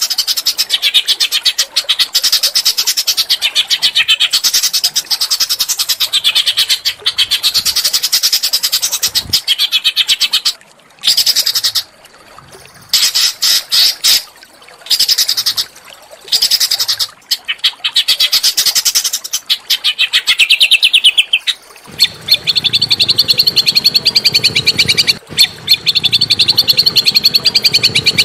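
Small songbird singing long, very rapid trills high in pitch, in runs broken by short pauses; about two thirds of the way through the trill turns steadier and a low hum joins underneath. It is a recorded tutor song (masteran) of the kind used to teach or stir up a white-rumped shama.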